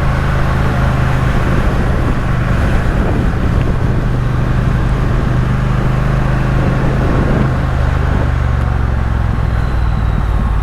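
Triumph Speed Twin parallel-twin engine running under load while climbing, heard from the bike over wind and road noise. The engine note shifts about seven to eight seconds in.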